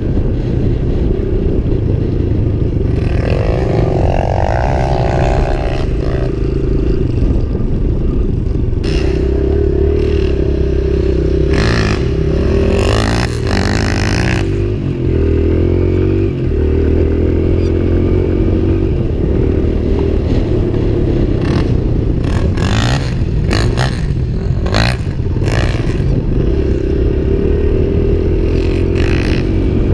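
Dirt bike engine running under the rider, heard from a helmet camera, its pitch rising and falling as the throttle is opened and closed across rough grass. Short bursts of rushing, clattering noise come a little before halfway and again after about twenty seconds.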